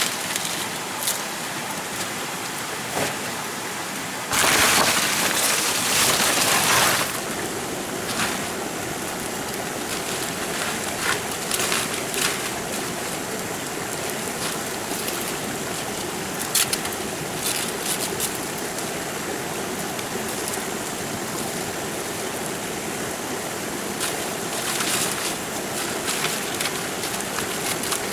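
Steady rushing water noise, like rain or a flowing stream, with a louder rush lasting about three seconds a few seconds in and scattered sharp ticks throughout.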